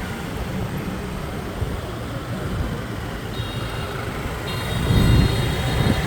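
Busy city street traffic heard while riding: a steady rumble of engines and wind. High steady beeps sound from about three seconds in, and a passing vehicle swells louder about five seconds in.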